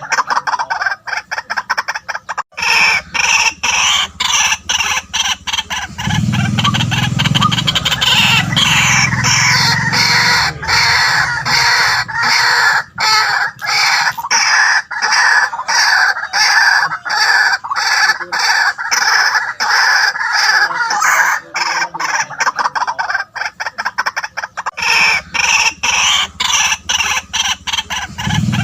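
White-breasted waterhens calling: a dense run of rapidly repeated croaking notes, several a second, with brief lulls, and a deeper sound joining for a few seconds twice.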